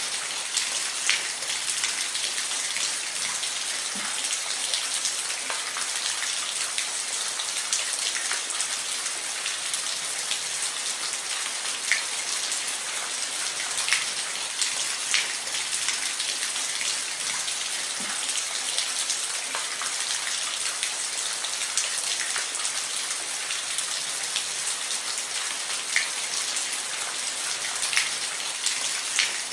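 Steady rain falling on a roof: an even hiss with scattered sharper drop ticks.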